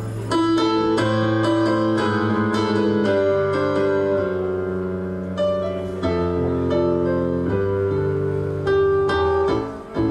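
Keyboard playing a song's instrumental introduction: held chords with a melody on top, changing every second or so, with a brief dip just before the end.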